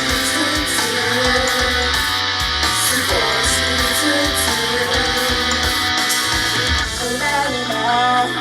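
Loud rock music played through a club PA: distorted electric guitar over a steady kick drum, an instrumental stretch of an idol-rock song, with the arrangement changing about seven seconds in.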